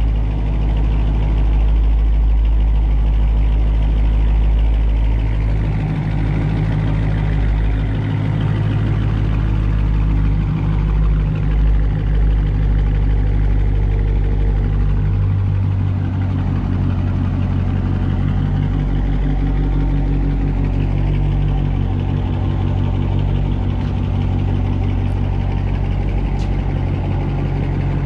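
The 5.7-litre HEMI V8 of a 2019 Dodge Charger R/T, with its mid mufflers deleted, idling steadily through the exhaust after a warm start.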